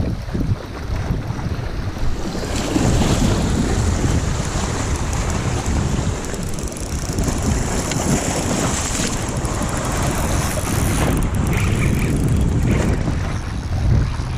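Strong wind buffeting the microphone, with lake waves washing in under it.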